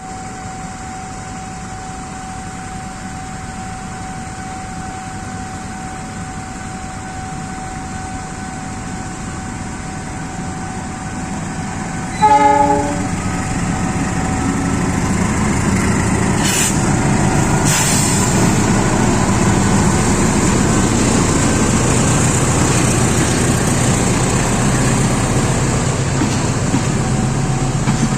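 CC 201 diesel-electric locomotive pulling a passenger train out of a station. At first there is a steady engine rumble with a thin high tone over it. About twelve seconds in the horn gives one short blast, and then the engine and train noise grow louder as it gets under way, with two brief hisses a few seconds after the horn.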